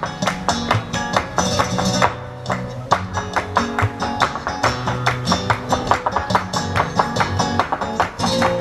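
Flamenco guitar music: a Spanish guitar strummed and plucked in quick, dense strokes over a steady rhythm.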